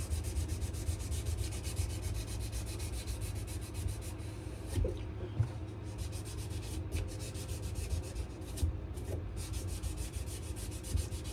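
Sandpaper rubbed by hand over a wenge and maple knife handle in quick, even back-and-forth strokes, at the finishing stage of the sanding. A couple of light knocks come in about halfway through and near the two-thirds mark.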